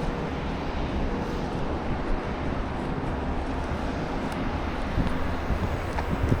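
Steady outdoor street noise during a snowstorm: a low rumble of wind on the microphone mixed with distant traffic, with a few short knocks in the second half.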